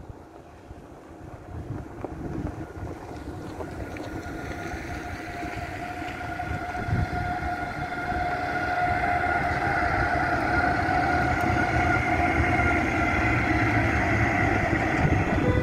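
Freight train approaching and growing steadily louder, with several steady whining tones building over the rumble.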